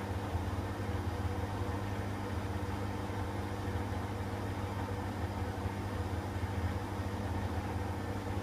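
Hoover WDYN 11746 PG8 washer-dryer's drum spinning at a steady speed, a constant motor hum with a low drone and a few higher tones, typical of the 400 rpm intermediate spin after the first rinse.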